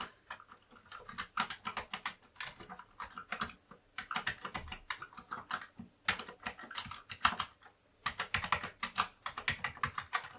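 Keys of a Commodore 64 keyboard clicking in quick runs of typing with short pauses between, as the repaired keyboard is tested key by key.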